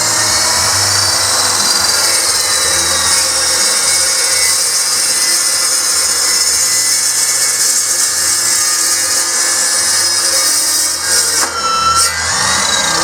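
Power saw cutting through a metal rail: a loud, steady high whine and hiss, with the blade's pitch sagging as it bites into the metal. It drops out briefly about eleven seconds in and starts up again.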